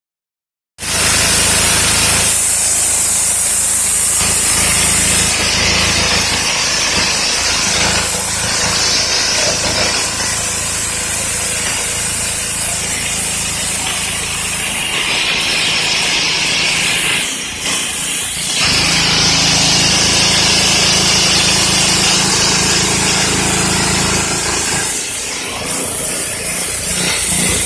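Pressure washer running and spraying, a loud steady hiss of water over the low hum of the pump, cut into several clips that start and stop abruptly.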